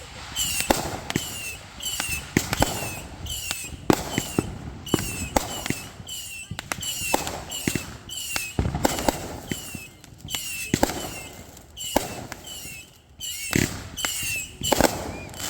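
Consumer fireworks going off in a chained show: an irregular run of sharp bangs and crackles, several a second, with a short high falling whistle-like chirp that repeats about once a second.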